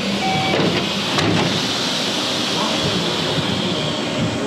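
Steady hissing noise of a stopped electric local train at a station platform with its doors open.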